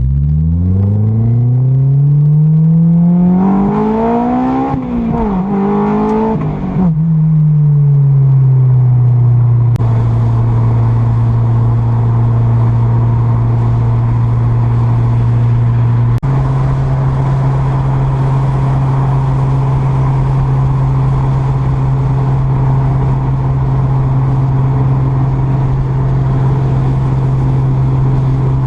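Car engine accelerating hard, its pitch climbing and dropping back at two gear changes in the first seven seconds, then settling into a steady drone at cruising speed.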